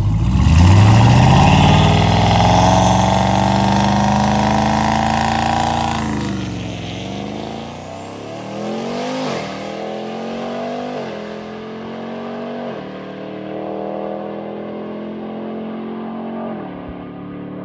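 Turbocharged Hemi V8 car launching hard down a drag strip: the engine jumps to high revs at once, holds there, then shifts up several times, each shift a drop in pitch followed by a climb, as the car pulls away and fades.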